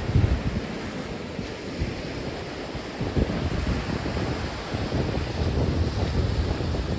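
Strong wind buffeting the microphone in low rumbling gusts over the wash of sea waves.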